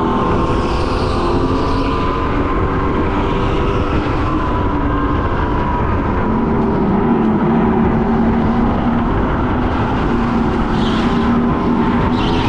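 Go-kart engine running at racing speed, heard onboard, its pitch shifting up and down.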